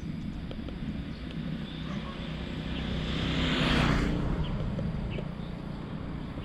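A steady low engine hum, with a motor vehicle passing close by: a rush that swells to its loudest about four seconds in, then fades.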